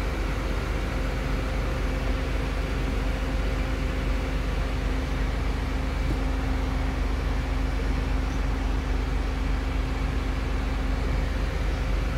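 Electric motor of a Renault Twingo's power folding roof running steadily as the roof opens, a steady hum that stops near the end, over a constant low rumble.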